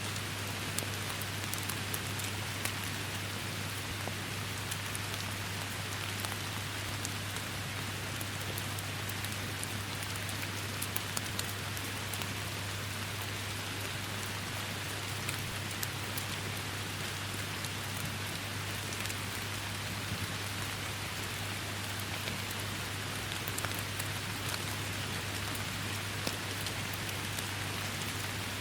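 Steady rain falling without a break, with the sharp ticks of single drops scattered through it and a steady low hum underneath.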